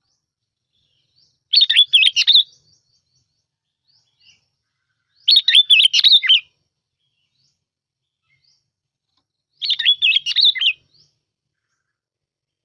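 Sooty-headed bulbul song played as a lure call: three short phrases about four seconds apart, each a quick run of wavering notes lasting about a second.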